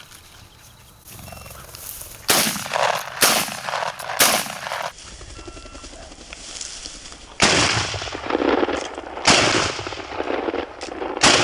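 Shotguns firing at flushed quail: six shots, each with a short echo. The first three come about a second apart starting about two seconds in, and the last three come about two seconds apart.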